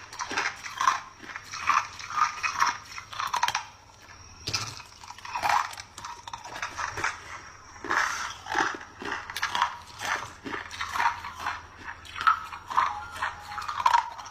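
Clear ice chunks bitten and crunched between the teeth close to the microphone, a quick run of irregular crunching chews. The crunching dips briefly about four seconds in, then picks up again with a sharp fresh bite.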